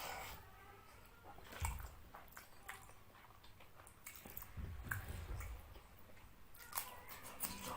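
A person chewing a mouthful of fish curry and rice: wet mouth sounds and small clicks and smacks, irregular, with a couple of low thumps.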